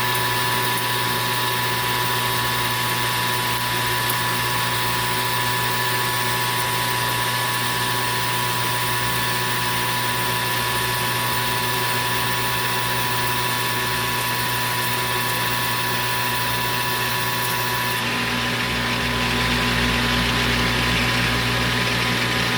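Metal lathe running steadily while turning aluminum bar stock. About eighteen seconds in the sound changes: the higher hiss drops away and a lower hum comes up.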